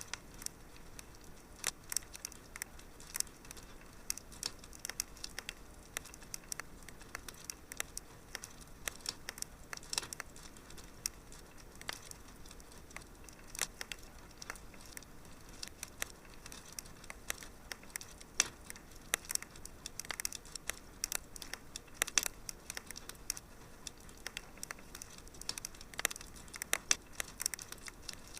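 Wood fire burning in a fireplace, crackling with frequent irregular sharp pops over a faint steady hiss.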